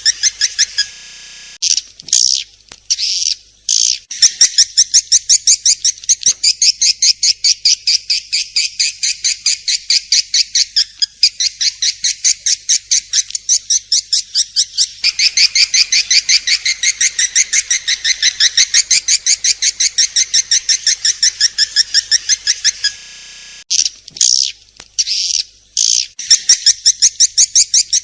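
Swiftlet (walet) calling: long runs of rapid, evenly spaced high chirps, about four a second, broken twice by short gaps with a few separate notes.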